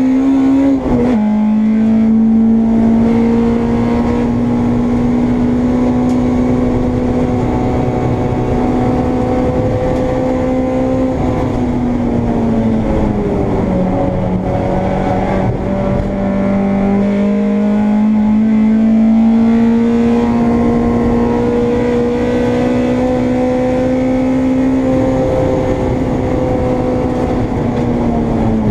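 Honda Integra race car's four-cylinder engine, heard from inside the car, running hard under load. Its pitch climbs slowly through the gears and drops back on lifts and downshifts: once about a second in, again over a few seconds about halfway through, and once more near the end.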